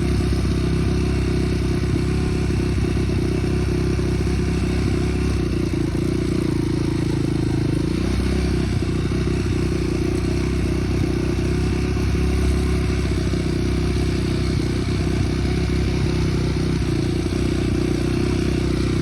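Small vehicle engine running steadily at a nearly constant pitch, with a haze of wind and rattle over it.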